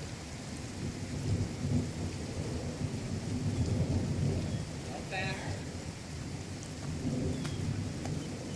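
Steady rain with a low, wavering rumble that swells and fades twice, and a short pitched call about five seconds in.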